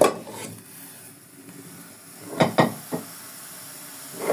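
Kitchen pots and utensils knocking and clattering: a loud knock at the start, two quick knocks about two and a half seconds in with a lighter one after, and another near the end.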